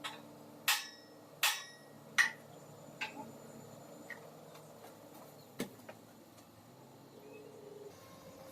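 Sharp knocks: three loud ones about three-quarters of a second apart, then a couple of lighter, sparser taps.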